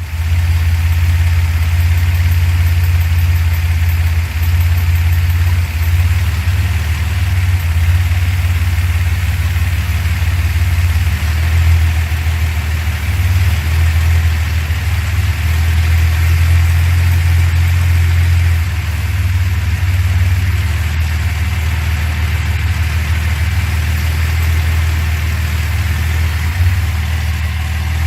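1970 Datsun 240Z's freshly rebuilt straight-six engine idling steadily and smoothly.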